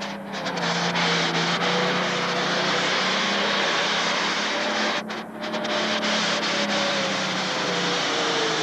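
Pro stock pulling tractor's turbocharged diesel engine running hard under load as it pulls the sled, a loud steady drone with a held engine note that sags slightly near the end.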